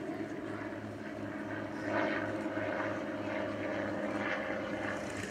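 Piston-engined propeller aircraft running steadily as it flies past, swelling in loudness about two seconds in.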